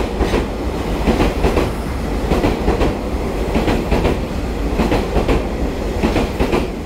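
TRA EMU3000 electric multiple unit running along the platform, a steady rumble with its wheels clacking over the rail joints, the clacks coming in quick pairs a few times a second.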